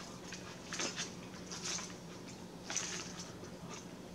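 Wet chewing and lip-smacking of a person eating a shrimp salad, a few moist smacks spaced about a second apart over a faint steady low hum.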